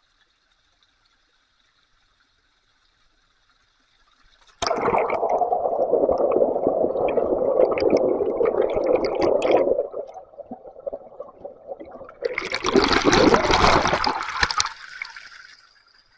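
Water rushing and splashing in two loud spells. About four and a half seconds in, a sudden fuller, lower rush lasts about five seconds. After a short quieter spell comes a brighter, hissier rush of about two seconds that then fades.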